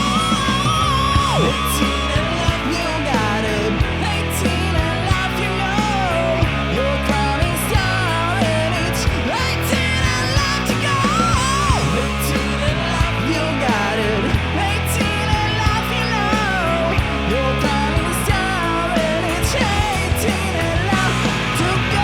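Hard rock music with a steady drum beat, distorted electric guitar and a high, wailing melody line over it.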